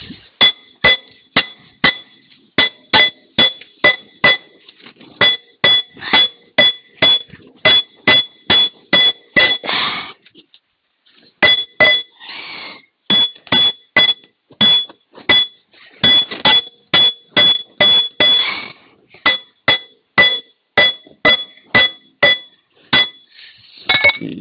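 Hammer blows on the steel drive sprocket of a Komatsu PC30-3 mini excavator, about two strikes a second, each ringing with a clear metallic pitch, in two long runs with a short pause near the middle. The sprocket is seized on the final drive hub and is being knocked to free it.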